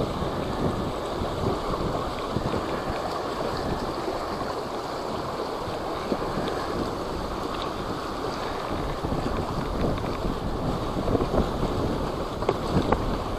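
Strong wind buffeting the microphone, a steady rumbling noise that rises and falls in gusts.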